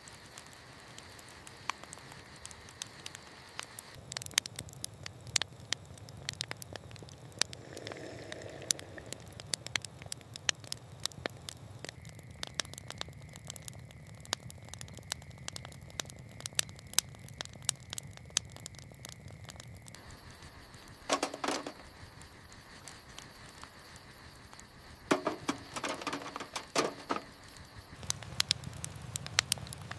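Campfire crackling with irregular sharp pops, over a steady patter of light rain. Two stretches of louder, rougher crackle stand out about two-thirds of the way through and again near the end.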